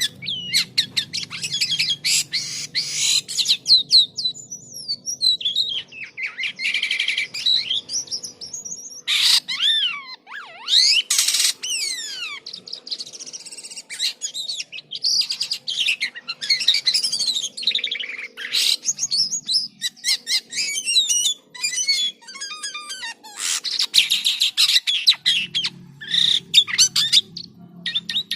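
Jalak kapas starling singing vigorously: a fast, varied, almost unbroken stream of chirps, whistles, harsh notes and quick rising and falling glides.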